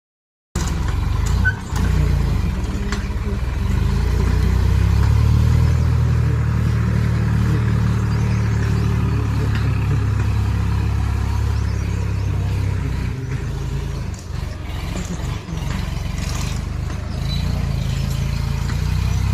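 Tractor engine running with a low, heavy drone that holds steady for most of the time and falters briefly about two-thirds of the way through.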